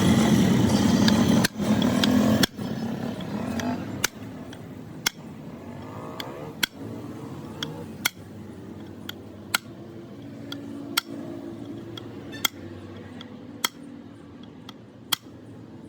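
A loud, dense mechanical noise that cuts off about two and a half seconds in, followed by a series of sharp knocks or taps about once a second over a low steady hum.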